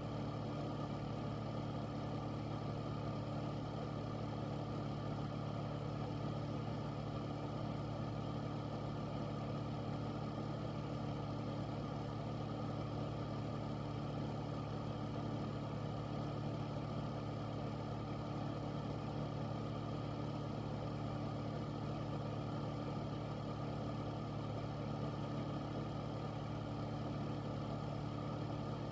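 Air filter running steadily: a constant motor hum with a low drone, over an even rush of air.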